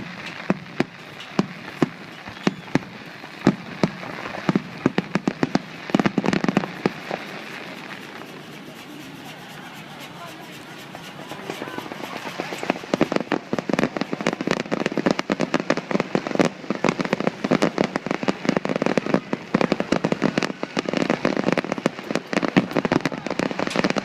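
Fireworks display: a rapid run of sharp bangs and crackles from bursting shells. It thins out in the middle, then builds again into a dense barrage over the second half.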